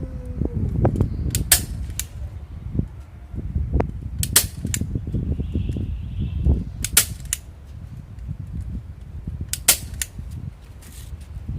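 Sharp snapping clicks, mostly in pairs about a third of a second apart, repeating every two to three seconds over a low rumble.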